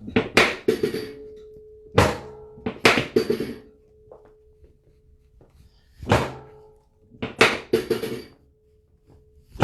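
About ten sharp thunks from the chiropractic table during an adjustment, coming singly and in quick runs of two or three, with a faint steady hum behind them.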